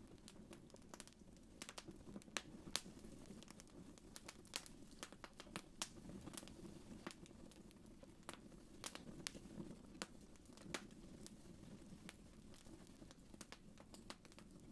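Wood fire crackling: irregular sharp pops and snaps, a few a second, over a low steady rumble of the flames.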